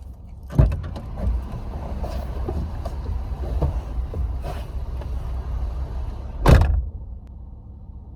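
Car door sounds over a steady low vehicle rumble: a thump about half a second in, then a louder door thump shut near the end, after which the sound turns muffled and quieter.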